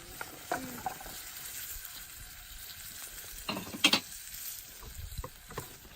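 Food sizzling in a pan over a campfire, a steady frying hiss, with a few sharp knocks of a utensil against the pan, the loudest pair a little under four seconds in.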